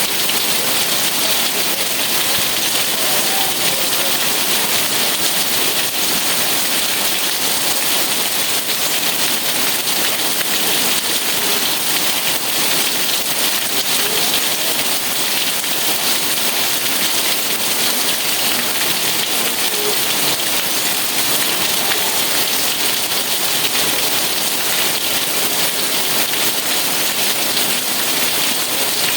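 Steady, even rain falling on a surface, a constant hiss with no let-up.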